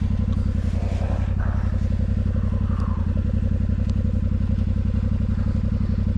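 Motorcycle engine running steadily at low revs with an even, unchanging pulse and no revving.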